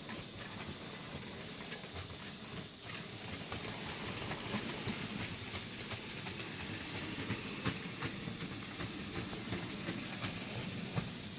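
Model train, a Bachmann Ivatt Class 2MT tank engine hauling a couple of coaches, running along the layout track: a steady rolling and motor hum with many irregular small clicks as the wheels pass over the rail joints.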